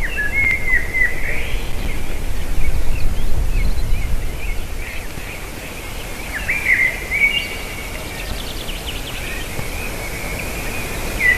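A bird calling in short, high whistled chirps with quick downward slurs, in two bouts: one right at the start and another from about six to eight seconds in. Wind rumbles on the microphone underneath.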